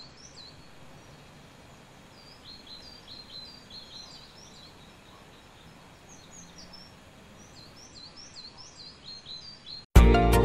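Small birds chirping, many short high notes in quick runs over a faint steady background hiss. Near the end, music cuts in suddenly and much louder.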